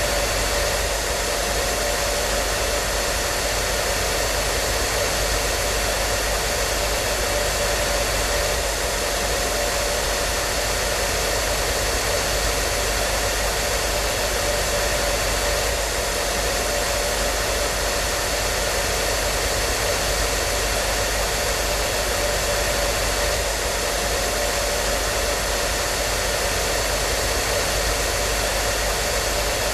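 Hair dryer running steadily, a constant rush of blown air with a faint motor hum.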